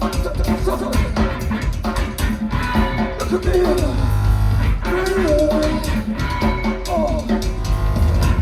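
Live rock band playing loud, with drum kit, guitar and a wavering lead line over a heavy low end, as heard through a crowd recording.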